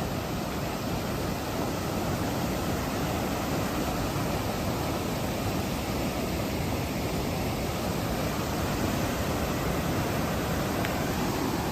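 Steady rushing of a creek in flash flood, running high and fast after monsoon rain.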